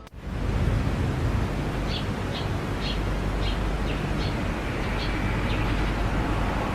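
A bird chirping about twice a second over a loud steady rumble.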